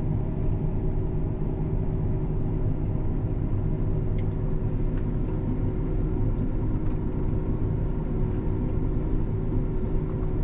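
A motor vehicle's engine running at a steady pace, a constant low hum with no change in speed.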